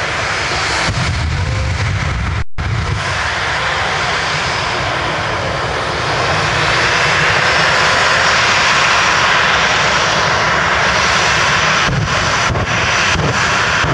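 Jet engine of a jet-powered show vehicle running loud and steady, swelling louder about six seconds in. The audio cuts out for a split second about two and a half seconds in.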